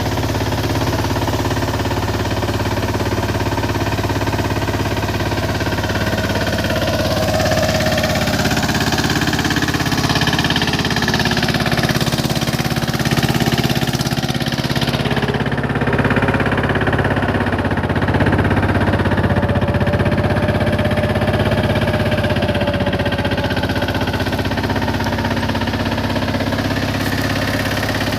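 Engine of a 15 HP mini tractor running steadily while it pulls a peacock-foot tine cultivator through soil, its pitch drifting slightly as the load varies.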